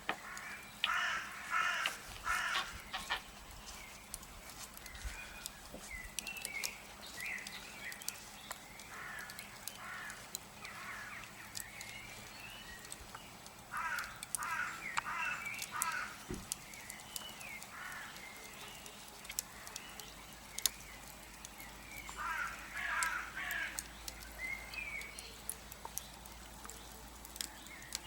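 A wood fire crackling with scattered sharp pops, while birds give loud harsh calls in short runs of several notes. The runs come near the start, about halfway through and toward the end, with fainter calls between.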